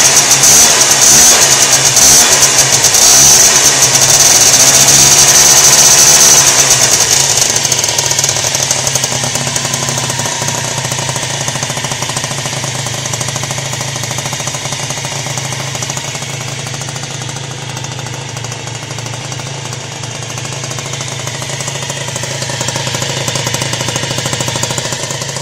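Peugeot Speedfight 2 50cc scooter's two-stroke engine with a Viper exhaust, revved hard for the first six or seven seconds, then dropping back to a steady idle that picks up a little near the end.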